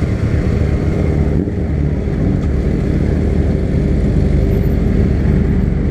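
Honda CB300 motorcycle's single-cylinder engine running steadily on the move, with other motorcycles of the group ride around it.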